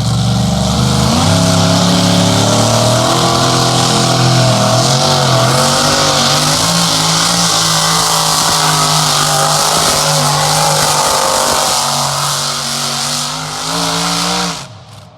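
Pulling vehicle's engine at full throttle under heavy load during a truck and tractor pull run, its pitch wavering, with a loud hiss over it. Near the end the revs climb, then the sound falls away suddenly as the run ends.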